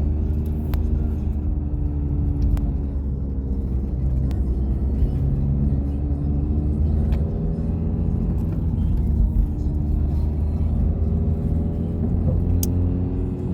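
Steady low rumble of a car being driven, its engine note drifting slowly up and down, with a few faint clicks.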